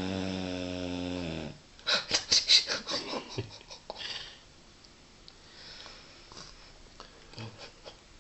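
Dog snoring in deep sleep: a long, steady snore that stops about a second and a half in, then a rapid fluttering rattle of about ten quick puffs, then soft breathing.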